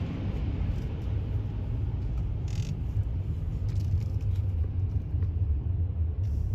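Steady low rumble of a car's engine and tyres heard from inside the cabin as it moves slowly. A brief faint click comes about two and a half seconds in.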